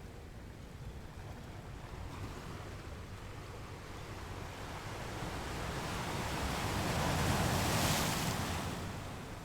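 Ocean waves: a steady wash of surf, with one wave building over several seconds, breaking loudest near the end and then drawing back.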